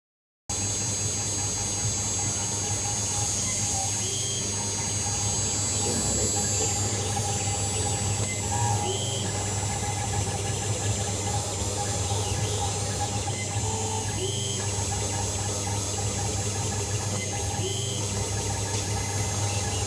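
CNC engraving machine running steadily: a constant motor hum with a high whine above it, and a short higher tone that comes back every four to five seconds.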